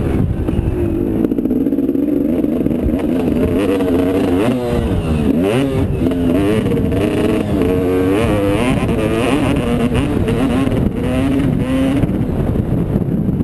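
Motocross motorcycle engine revving up and down as it rides, its pitch rising and falling again and again as the throttle opens and closes.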